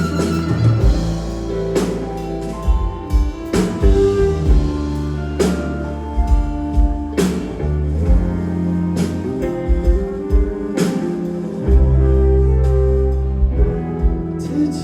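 Live rock band playing an instrumental passage: heavy bass and drum kit under held chords, with a cymbal-and-drum accent about every two seconds.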